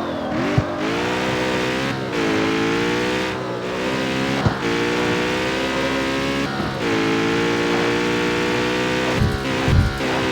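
Jaguar F-Type's supercharged V8 running steadily under load, its pitch dipping briefly every two seconds or so. Sharp exhaust pops come about half a second in and again midway, with a cluster of pops and crackles near the end.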